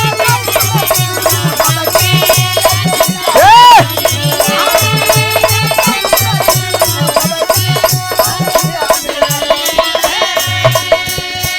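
Instrumental interlude of a Bhojpuri birha folk song: a steady hand-drum beat of about two strokes a second, with rattling percussion and a held melody over it. A brief sung cry rises and falls about three and a half seconds in.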